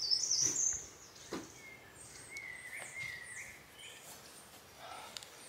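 Small birds singing: a high twittering phrase right at the start, then a thinner whistled note about two to three seconds in. A few short soft knocks sound under the birdsong.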